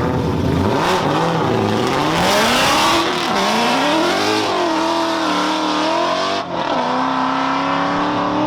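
A drift car's engine revving up and down through the gears, with tyres squealing under a loud hiss. The engine note changes abruptly about six and a half seconds in and settles to a steadier pitch.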